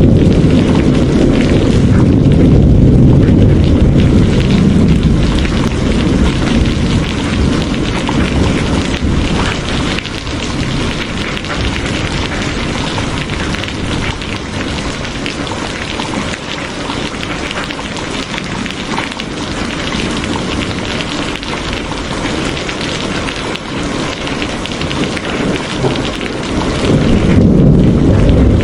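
Steady rain pouring down, with a low rolling rumble of thunder through the first few seconds that fades away and builds again near the end.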